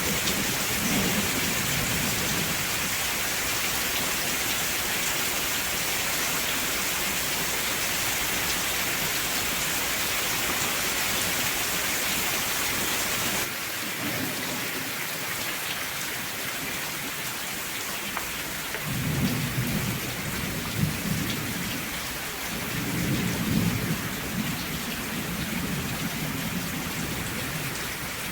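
Steady rain hiss. About halfway through it shifts abruptly to a slightly quieter rain. Low rolling rumbles of thunder swell twice in the second half.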